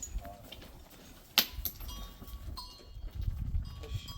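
Bells on a herd of goats ringing with several clear, steady tones, with a sharp knock about a second and a half in.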